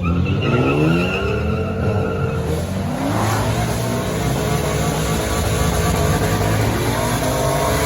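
Car engine revving hard under acceleration: its pitch climbs at the start, holds, climbs again about three seconds in, then runs on at high revs.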